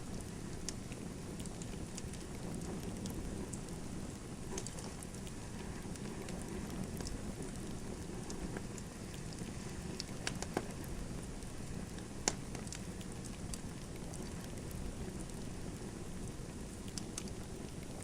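Wood fire burning in a fireplace: a steady low rustle of flames with scattered sharp crackles and pops, the loudest two about ten and twelve seconds in.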